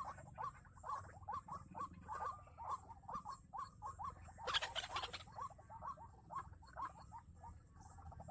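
White-breasted waterhen (ruak-ruak) calling in a monotonous series of short, upswept notes, about two to three a second. About halfway through there is a brief noisy rustle.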